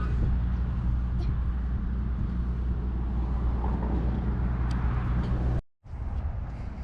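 A vehicle engine running steadily with a low drone. It cuts off abruptly near the end, followed by a quieter background.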